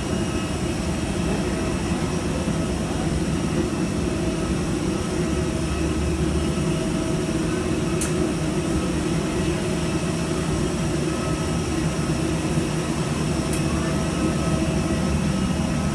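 Steady drone of an airliner's engines and airflow heard from inside the passenger cabin, an even low noise with faint steady tones above it. Two brief light clicks, about halfway through and near the end.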